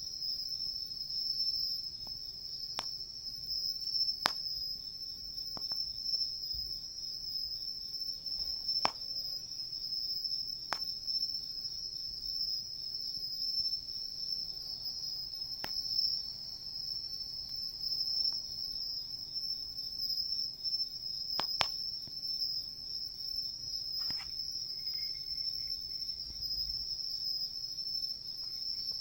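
A steady, high-pitched chorus of insects trilling without pause, with occasional sharp crackles and pops from a wood campfire.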